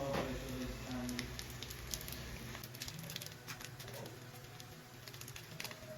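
Food crackling and popping in hot oil in a pan, with irregular sharp pops over a low steady hum.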